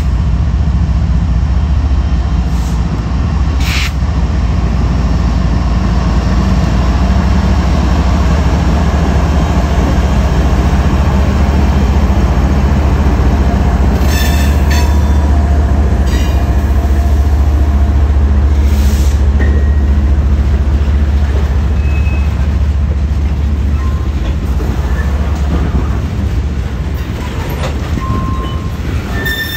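Norfolk Southern freight train of covered hopper cars rolling past close by: a loud, steady low rumble that eases off near the end. A few short sharp clanks and brief high squeals from the wheels and cars come through.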